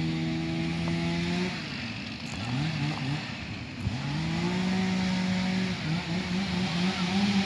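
Car engine running at a steady speed, then easing off and speeding up again, its pitch rising twice before holding steady with a slight waver.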